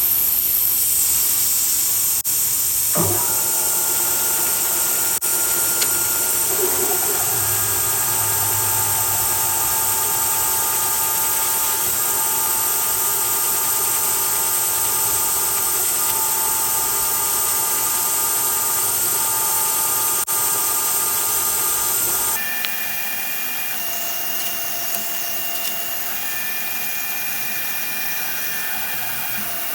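Mist coolant spraying with a loud, steady hiss while a manual milling machine runs and cuts a steel plate, with a steady whine of several tones. About 22 seconds in the hiss and whine cut off suddenly and a quieter, different machine whine carries on.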